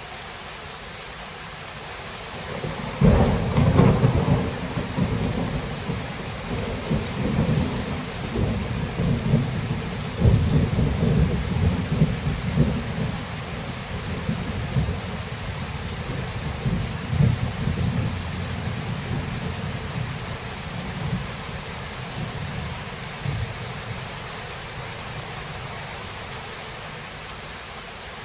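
Thunder breaks suddenly about three seconds in and rumbles on in waves for some twenty seconds, fading out, over the steady hiss of falling rain.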